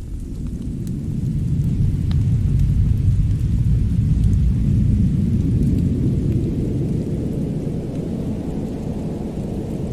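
Winter snow-and-fireplace ambience: a deep, steady rumble that swells a couple of seconds in and eases toward the end, with a few faint crackles.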